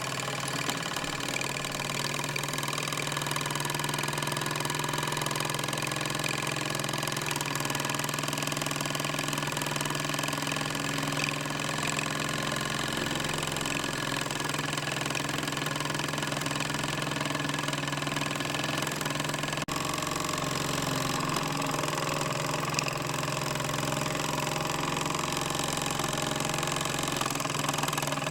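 Mamod Ol' Stumpy live-steam model traction engine running steadily under steam on its first run, its small steam engine and gearing chattering evenly. A brief break in the sound comes about twenty seconds in.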